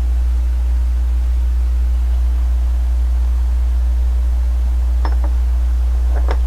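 Steady low rumble of the trike ride, with two faint short higher-pitched sounds near the end.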